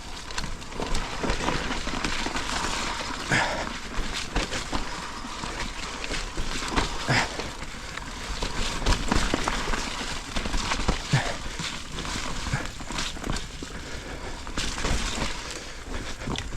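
Mountain bike riding down a dirt trail: a continuous rush of tyre and trail noise with frequent irregular knocks and rattles as the bike goes over roots and bumps.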